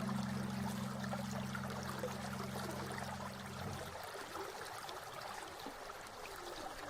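Steady trickle of a small stream running over stones. A held low chord from a music track cuts off a little past halfway, leaving the water alone.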